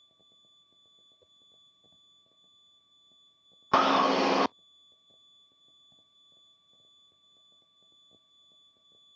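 Aircraft intercom audio: a faint, steady high-pitched electrical whine with light crackle. About four seconds in it is broken by a single loud burst of noise lasting under a second, such as a radio transmission keying or squelch opening.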